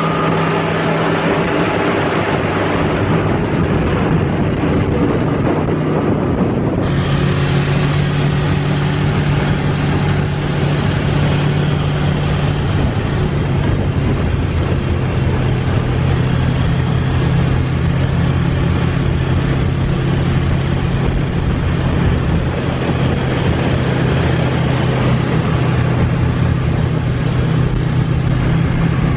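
Large 1970s motorcycle engine running steadily, with a noticeable change in the sound about seven seconds in.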